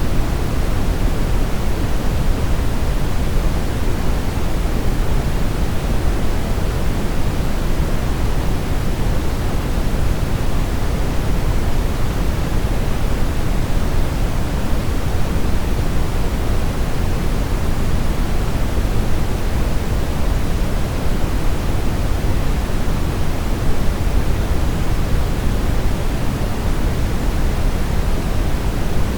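Steady brown noise: an even, unchanging hiss-rumble with its weight in the low end, thinning out toward the highs.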